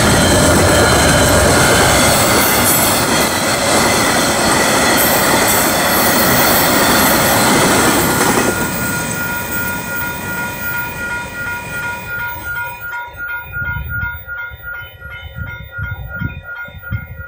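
Train passing over a level crossing, loud wheel and rail noise with clickety-clack, which drops away about eight seconds in as the train leaves. The crossing's warning bell then rings on alone, pulsing about twice a second, with fading thuds from the departing train's wheels.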